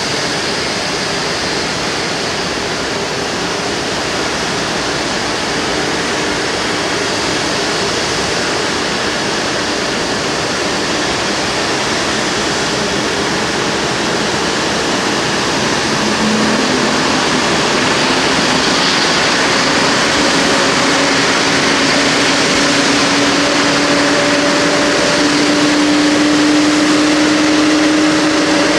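Steady jet roar from an Airbus A340-500 with its Rolls-Royce Trent 500 engines, with a whine that comes in about halfway through and rises slowly and steadily in pitch as an engine spools up.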